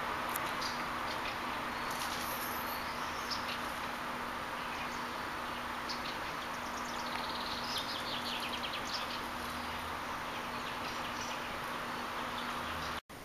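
Small birds chirping in short, scattered phrases over a steady hiss and a faint low hum; the sound cuts off abruptly near the end.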